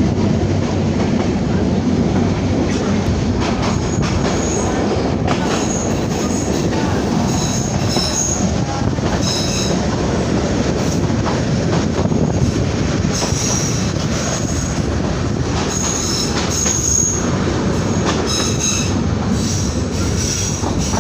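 Passenger train running along the track with a steady, loud rumble of wheels and carriages. From about four seconds in, brief high-pitched wheel squeals come and go.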